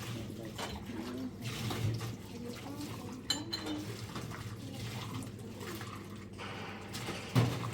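Water splashing and dishes clinking, with a sharp knock near the end.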